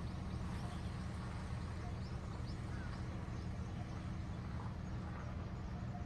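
Small birds chirping faintly with short, quick high calls, over a steady low rumble.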